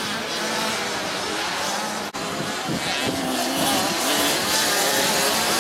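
Small 50 cc two-stroke motocross bikes racing, their engines revving up and down with several pitches overlapping. A very short break in the sound a little after two seconds in, then an engine rises in pitch as it revs.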